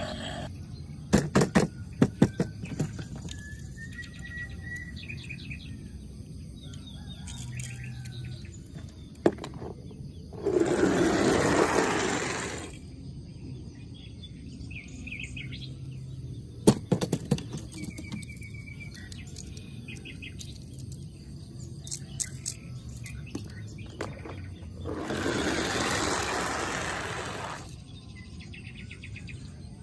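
Birds chirping now and then, broken by clusters of sharp clicks and knocks. Two rushing noises, each about two seconds long, come in around the middle and near the end.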